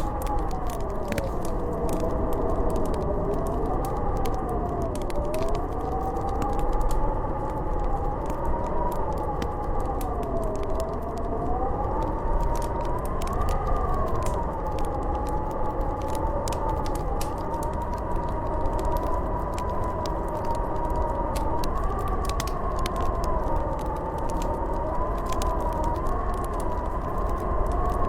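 Howling snowstorm wind, its whistling pitch wavering up and down over a low rumble, with the light crackle of a wood fire in a fireplace.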